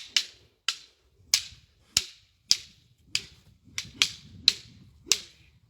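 Wooden fighting sticks clacking together in a steady drill rhythm, about ten sharp strikes at roughly two a second.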